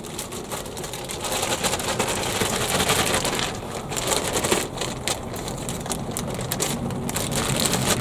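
Compost being scooped and poured into a heavy-duty plastic bag: a dense, irregular rustling of soil and crinkling plastic, busiest in the middle.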